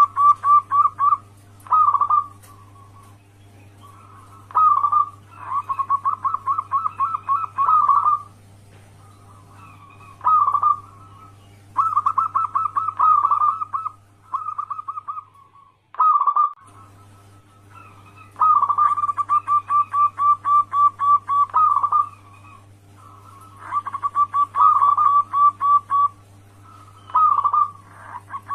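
Zebra dove (perkutut) singing in repeated bouts of its rhythmic cooing song, each a rapid run of soft coo notes at about five a second, broken by short pauses. A steady low hum lies underneath and cuts out briefly just after the middle.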